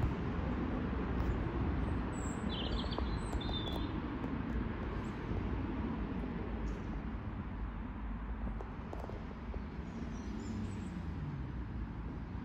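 A small bird chirping in short high calls about two to four seconds in, and briefly again near ten seconds, over a steady low rumble.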